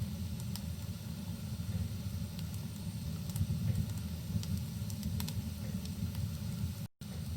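Fireplace crackling, with scattered sharp pops over a steady low rumble and hiss of rain. The sound cuts out for an instant near the end.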